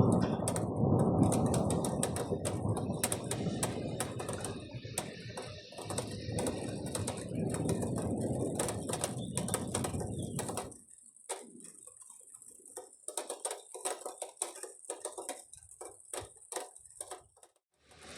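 A long roll of thunder rumbling on and dying away about ten seconds in, over irregular ticking of drops striking a nearby surface; the ticking carries on alone, fainter, after the rumble stops.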